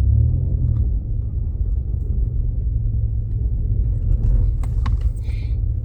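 Steady low rumble of engine and road noise inside the cabin of a Jeep Grand Cherokee driving on a snowy road, with a few faint clicks near the end.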